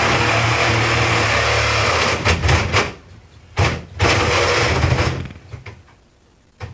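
Cordless reciprocating saw cutting into a refrigerator cabinet, running in bursts: a long run, a few short stutters, a brief pause, then another run that stops about five seconds in.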